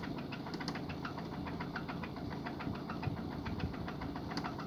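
Toyota 1ZZ 1.8-litre four-cylinder engine idling, with a fast, even ticking over its steady hum.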